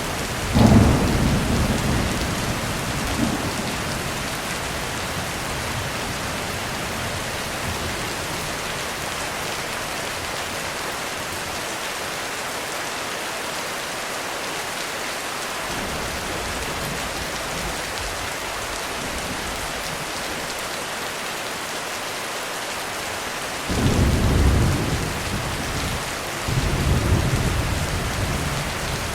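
Heavy rain falling steadily, with thunder rumbling three times: a sharp clap about half a second in that rolls away over a few seconds, and two more rumbles near the end.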